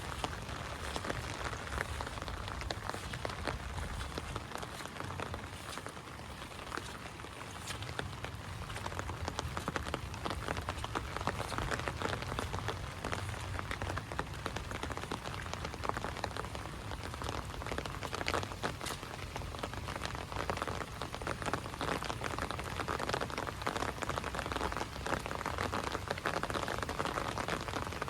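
Heavy rain falling steadily, a dense patter of drops hitting the ground and water.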